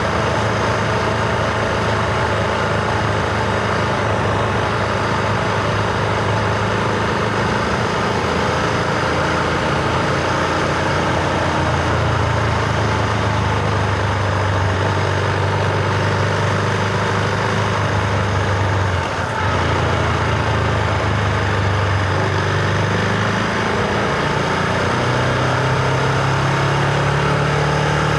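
Husqvarna Vitpilen 701's single-cylinder engine running steadily under way, with a brief dip about two-thirds of the way through. The engine note then rises and holds higher near the end.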